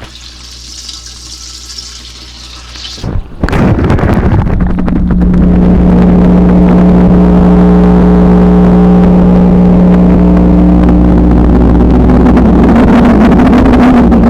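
A soft pouring-water hiss, then about three seconds in a motor starts up and runs loud and steady with a constant hum.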